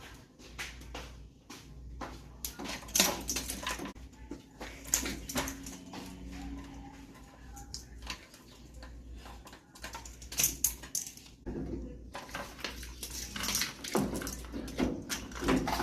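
Irregular metallic clinks, clatters and knocks of parts and hand tools being handled while a washing machine is taken apart.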